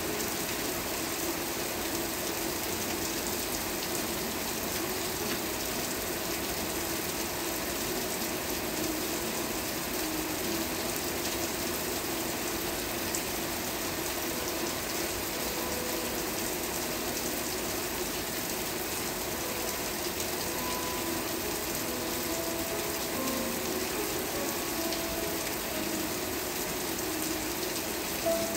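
Steady rain: an even hiss with dense, fine pattering of drops that does not let up.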